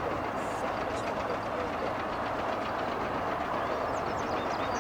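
Steady roar of jet airliner engines, an even noise with no breaks.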